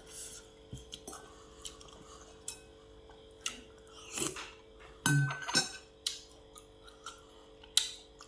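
Cutlery clinking and tapping against plates and bowls while a meal is eaten, in scattered single clicks, with a louder cluster of clatter about five seconds in.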